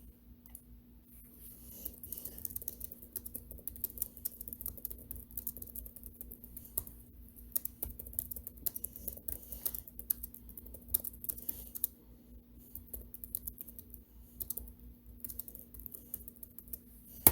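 Rapid light clicking in runs with short pauses, like typing on a keyboard, over a faint steady hum, ending with one sharper click.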